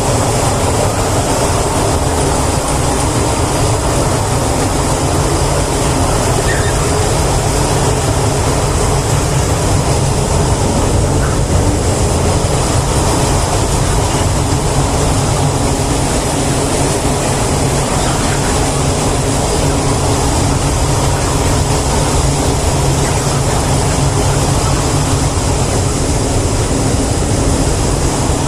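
A steady, unchanging mechanical drone: a low hum under an even hiss, with no starts or stops.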